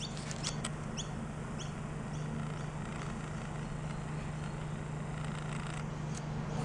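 A bird gives a short run of high, thin chirps about half a second apart, starting about a second in and fading within a couple of seconds, over a steady low hum.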